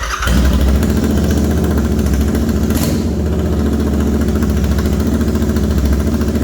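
Royal Enfield Interceptor 650's 648 cc parallel-twin engine catching right at the start and then idling steadily, loud, with both mufflers removed so it runs through the open header pipes.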